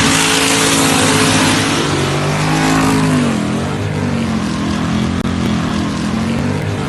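Turbocharged LS V8 in a Mitsubishi 3000GT running hard at full throttle on a drag pass. Its pitch dips about three seconds in and then holds steady at a lower note.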